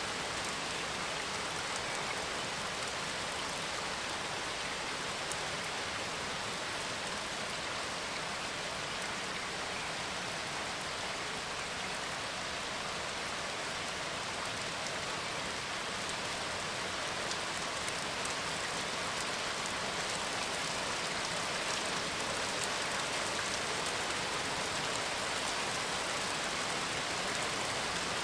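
Steady rain falling, an even continuous hiss with a few faint drop ticks.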